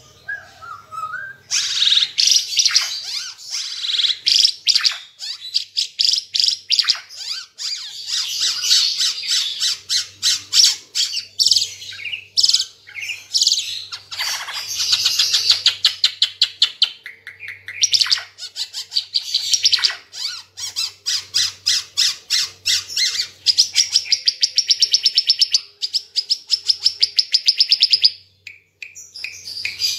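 Ara Timor songbird singing loud, fast runs of rapid repeated high chirping notes and trills, broken by brief pauses.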